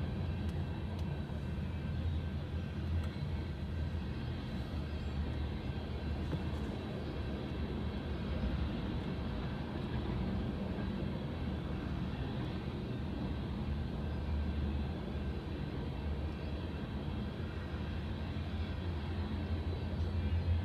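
Freight train of covered hoppers and tank cars rolling steadily past across a grade crossing, a continuous low rumble of wheels on rail, heard muffled from inside a stopped vehicle's cabin.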